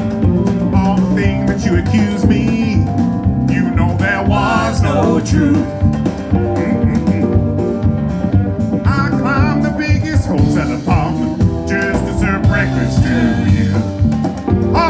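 A band playing blues-style music with guitar and a drum beat, with a wavering lead melody over it.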